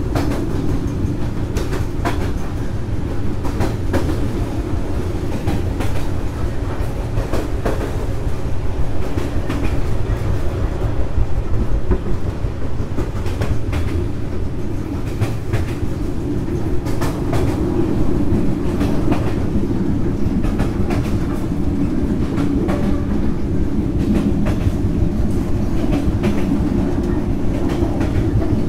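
Vietnam Railways passenger train SE19 running along the track, heard from on board: a steady low rumble of wheels on rails with frequent, irregular clicks and clacks.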